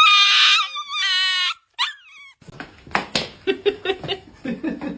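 A dog whining in high-pitched, drawn-out cries: two long ones, then a short falling one. After that come a run of clicks and knocks with short low sounds.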